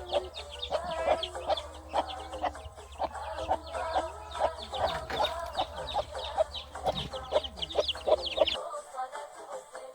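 Chickens clucking, with many quick high-pitched chirps over them and a low hum under them. The sound cuts off suddenly about eight and a half seconds in, leaving background music.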